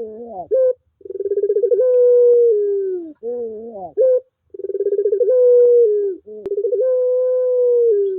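Puter pelung, a long-cooing strain of Barbary dove, cooing over and over. Each coo opens with a quick rolling flutter, holds a long steady note and falls in pitch at the end, with a shorter wavering call between the long ones.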